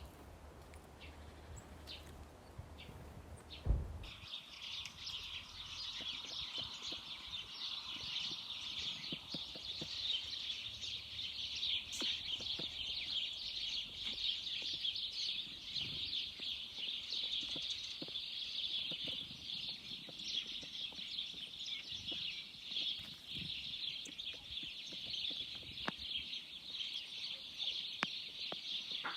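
Many small birds chirping and twittering densely and continuously, starting suddenly about four seconds in. Before that there is a low rumble and a single sharp thump.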